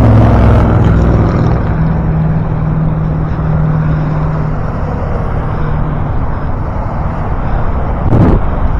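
Motor vehicle engine hum nearby, steady and then fading out about six seconds in, over continuous rushing noise from wind and road on the microphone of a bike-mounted action camera.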